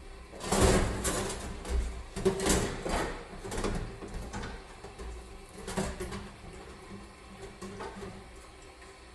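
Scrubbing strokes on a dirty stove, a series of irregular swishes that thin out and grow quieter after about six seconds.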